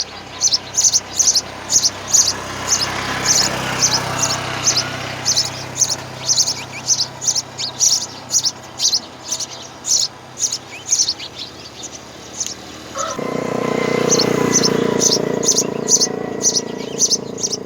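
A bird chirping over and over in short, high chirps, about three a second, with a short lull around two-thirds of the way through. About two-thirds in, a louder, even rushing noise starts under the chirps.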